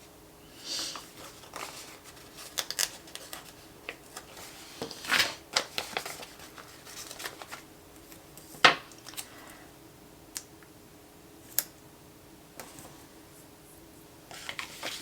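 Planner stickers and paper handled close up: scattered rustles, peels and light taps, with one sharp click a little past the middle. A faint steady hum runs underneath.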